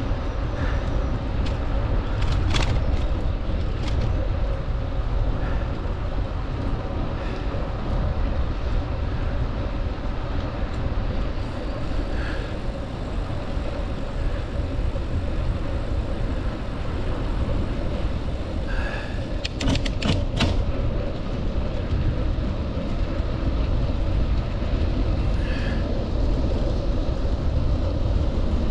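Wind rushing over the microphone of a bicycle being ridden at speed, with a cluster of sharp clicks about twenty seconds in.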